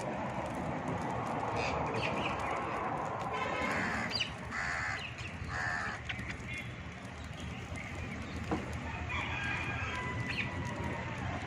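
Birds calling: scattered short squawks and chirps over a steady background hiss, with one longer held note near the end.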